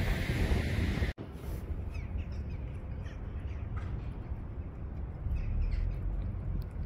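Birds calling, a few short separate calls over a steady low rumble. The sound drops out for an instant about a second in, and is quieter after.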